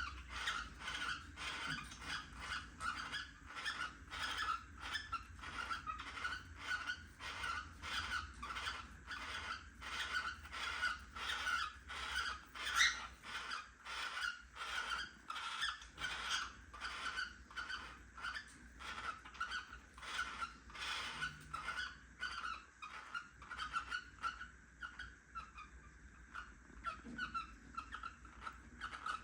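Cockatiel giving a long, steady run of short repeated chirps, a few each second, which keeps going without a break.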